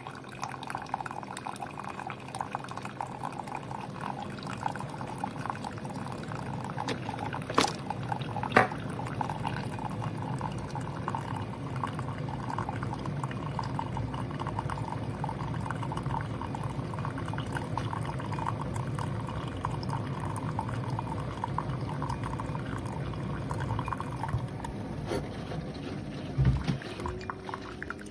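Keurig K-Duo Plus single-serve coffee maker brewing a K-cup: the pump runs quietly while hot coffee streams and sputters into the cup, then it winds down near the end. Two sharp clicks come about eight seconds in, and a low thump follows after the brewing stops.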